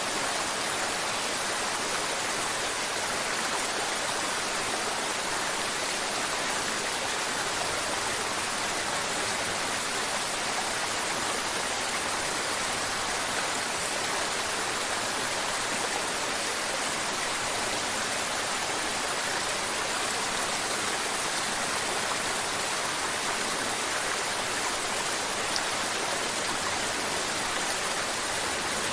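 Mountain river water flowing and babbling over rocks: a steady, bright rush with no break.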